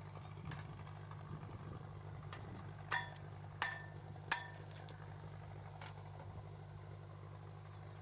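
Three sharp, ringing clicks of a table-tennis ball, about two-thirds of a second apart, over the ship's steady low machinery hum.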